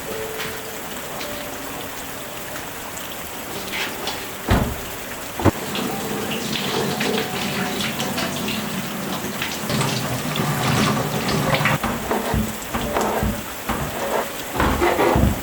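Steady rain falling, with a few sharp knocks, two of them about four and a half and five and a half seconds in.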